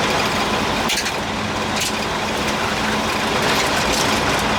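A car rolling slowly over a rough gravel road base: steady engine and road noise, with a couple of sharp knocks about a second and two seconds in.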